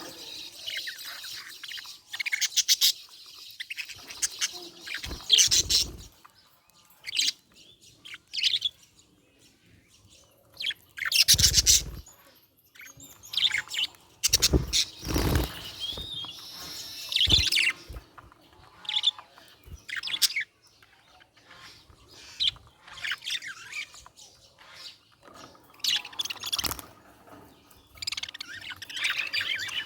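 Budgie chirping and warbling in short, busy bursts of high chirps and trills. A few louder rustling thumps come around the middle, the loudest about 11 and 15 seconds in.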